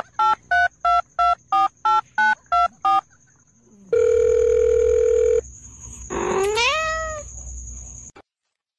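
About ten quick telephone keypad beeps, then a steady phone tone for about a second and a half, then a cat's rising meow.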